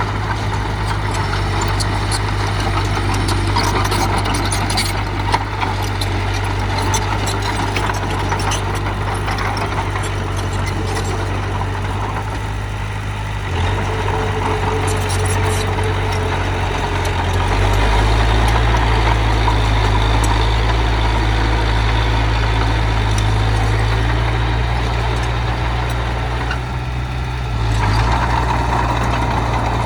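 Heavy machine's diesel engine running steadily, its pitch and load shifting a few times, with scattered clicks and clanks over it.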